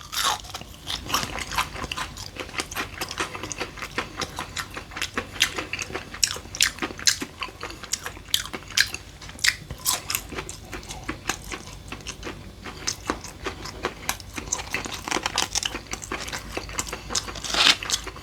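A person biting into and chewing a piece of pan-fried battered Korean fried chicken, with frequent irregular crunches of the coating.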